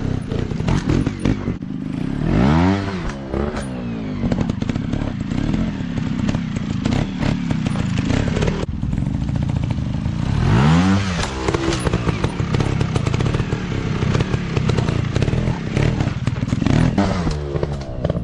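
Off-road dirt bike engine running under riding load, the revs rising and falling sharply several times, with clattering knocks.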